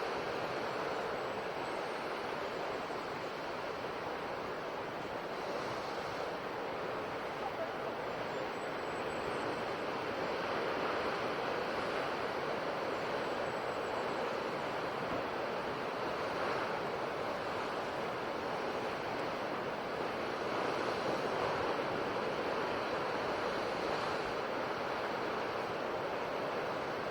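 Ocean surf washing steadily onto a shore, a continuous hiss of breaking waves that swells and eases gently without distinct crashes.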